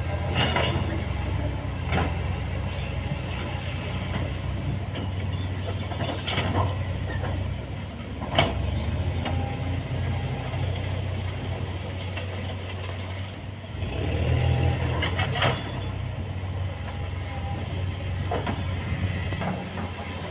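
Hydraulic excavator's diesel engine running steadily, with sharp metallic clanks from the bucket and linkage every few seconds. The loudest clank comes about eight seconds in, and the engine grows louder for a couple of seconds around three-quarters of the way through.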